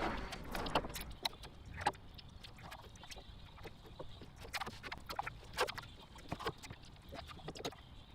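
Irregular short clicks and clanks of hand tools and metal parts being handled during an engine removal, coming in quick succession over a low hiss.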